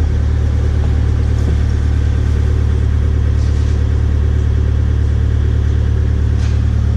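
Kubota KX057-5 excavator's diesel engine idling steadily with a low, even hum.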